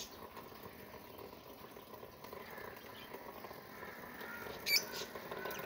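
Quiet garden background with faint bird calls, and one short, sharp, high chirp near the end.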